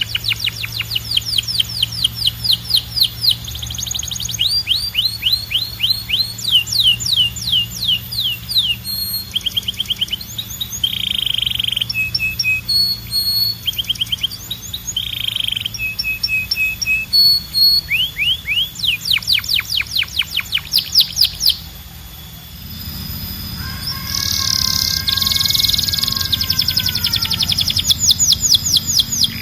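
Canary singing: fast runs of repeated down-slurred notes alternating with varied short phrases and buzzy trills, with a brief pause about two-thirds of the way through.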